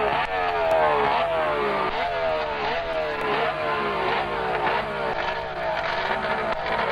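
Racing sidecar outfit's engine revved hard again and again, its pitch climbing and falling back a little under a second apart.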